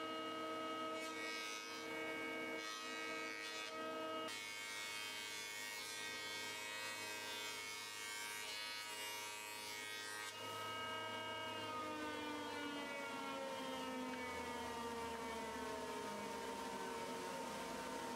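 Electric woodworking machine running at full speed with a steady multi-tone whine, cutting through wood for about six seconds from about four seconds in, then switched off and winding down with a slowly falling whine.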